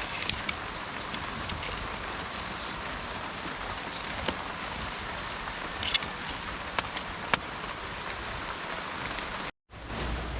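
Steady rain falling, with a few scattered sharp ticks. The sound cuts out briefly near the end.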